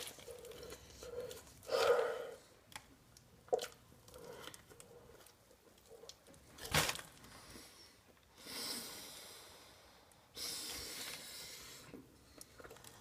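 A man chewing a large mouthful of food and breathing heavily, with a short grunt early on and two long, hissing exhalations near the end, the laboured breathing of someone forcing down food while already full.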